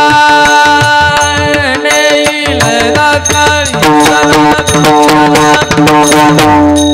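Devotional kirtan music: sung melody with tabla and pakhawaj drumming, the drum strokes growing denser after a couple of seconds.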